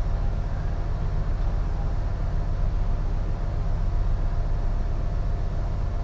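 Strong wind buffeting the microphone aboard a container ship, giving a steady, fluttering low rumble with a faint steady hum above it.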